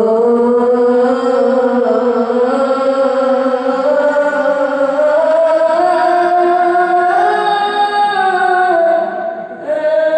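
Islamic devotional chant sung in Arabic, a single melodic line held in long, drawn-out notes that glide slowly up and down, with a short break for breath near the end.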